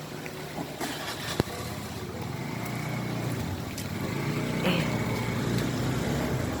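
A motor vehicle engine running, growing louder about halfway through, with a single sharp knock about a second and a half in.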